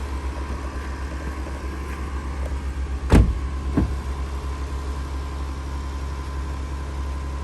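Car engine idling with a steady, evenly pulsing low rumble, heard from close by. Two short knocks come about three seconds in, the first louder.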